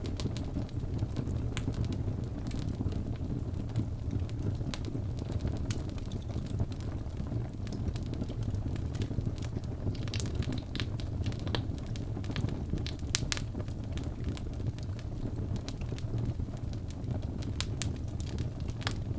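Wood fire burning in a fireplace: a steady low rumble of flame with irregular sharp crackles and pops from the burning wood.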